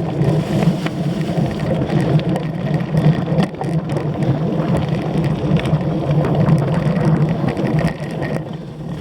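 Cyclocross bike being raced over rough ground: a steady rumble of tyres and wind, with many small rattles and clicks from the bike.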